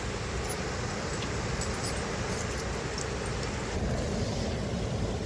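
Small waterfall swollen by heavy rain, water rushing and pouring in a steady loud roar.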